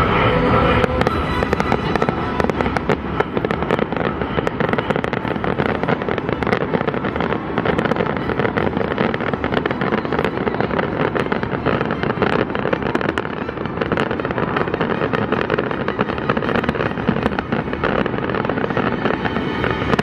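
Fireworks display at full intensity: many shells bursting in quick succession, a dense, continuous crackle of sharp reports over a steady rumble.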